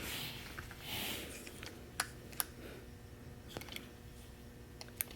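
Quiet handling of a plastic toy and its packaging: a short rustle about a second in, then a few scattered sharp clicks.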